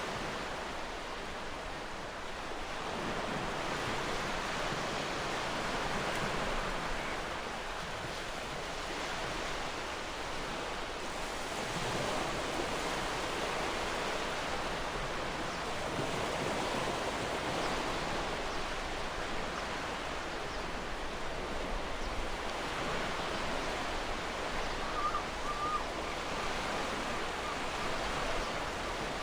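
Gentle ocean waves washing on the shore, a continuous hiss of surf that swells and eases every few seconds. A short faint chirp sounds near the end.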